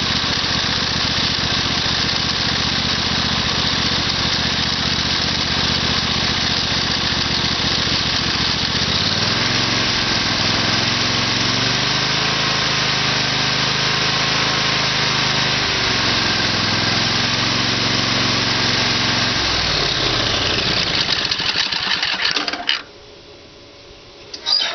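Briggs & Stratton 20 hp twin-cylinder engine running: it is revved up about nine seconds in, held at the higher speed, throttled back, then slows and shuts off about twenty-three seconds in.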